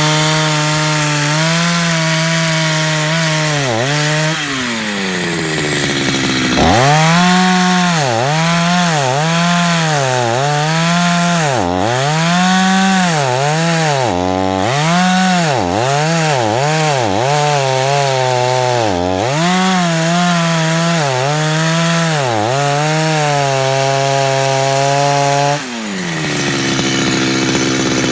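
Two-stroke chainsaw cutting into a log at high revs, its engine note dipping about once a second as the chain bogs in the wood. About four seconds in it eases off toward idle, then it revs back up, and it eases off again near the end.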